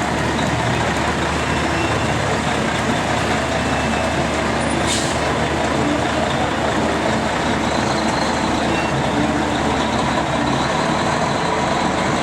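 Heavy truck engine running steadily, a constant low hum under a broad mechanical clatter.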